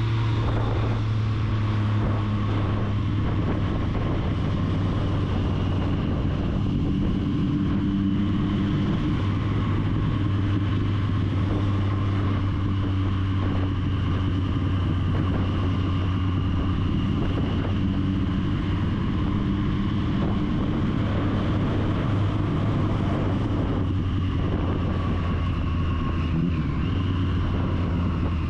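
Triumph Street Triple's three-cylinder engine running steadily while the motorcycle is ridden, its tone holding nearly constant and shifting slightly near the end.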